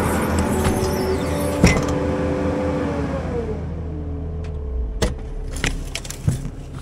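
Cat 299D3 tracked loader with a forestry mulcher running hard, then winding down about three seconds in, its pitch falling as the machine is throttled back at the end of the job. A few sharp metal clanks follow near the end.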